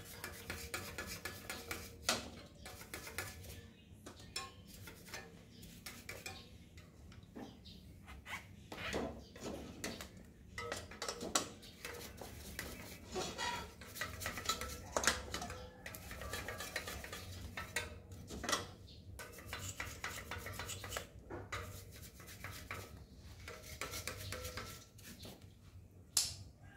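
Small metal parts clinking and clattering against each other as they are handled during a bicycle overhaul: irregular sharp clinks, several a second at times, some ringing briefly.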